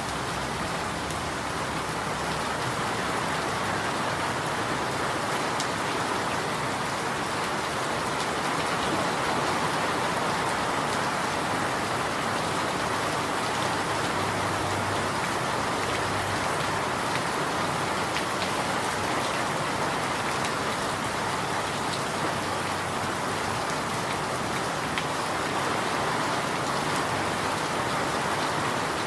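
Steady rain falling: an even hiss of rain with scattered small drop ticks, holding at a constant level.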